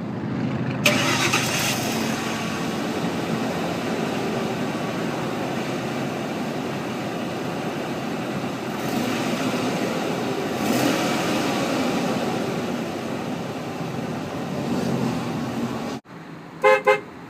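Ford 5.4-litre V8 of a 2002 Expedition running steadily just after start-up, swelling for a few seconds about halfway through. Near the end the sound cuts off abruptly, followed by a few short, loud pitched beeps.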